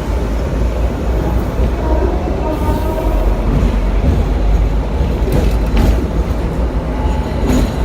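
Hong Kong double-decker electric tram running along its track, heard from on board: a steady low rumble with a faint thin squeal and a few sharp clicks in the second half.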